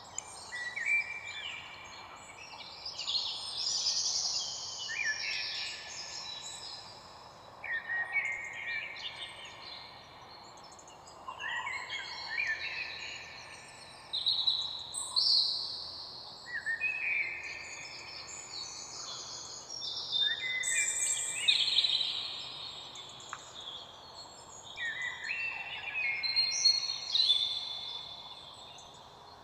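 Songbirds singing: bursts of high, warbling phrases every few seconds over a faint steady outdoor hiss.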